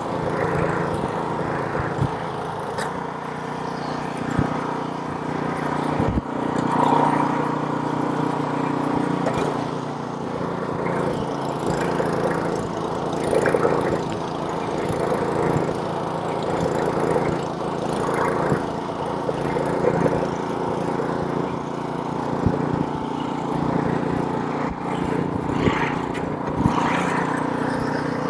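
Gas snowblower's small engine running steadily while clearing snow, with swells of noise every few seconds and a few sharp knocks.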